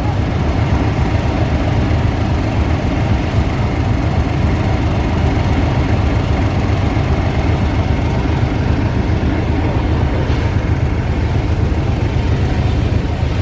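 Class 31 diesel locomotive's English Electric V12 engine running steadily, a loud low drone that holds even throughout.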